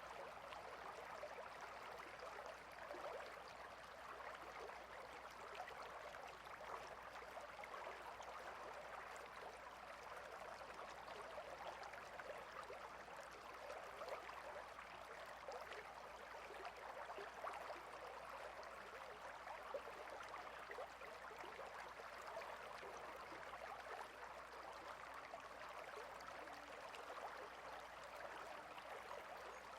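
Water stream flowing steadily, a constant, fairly faint babble of trickling water.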